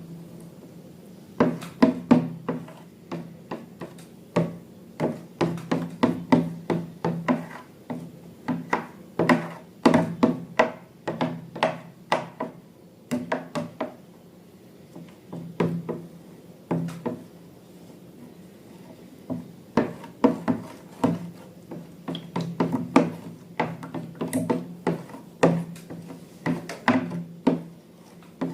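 Slime being mixed and worked in a container, giving quick, irregular clicks and taps in clusters with short pauses, over a steady low hum.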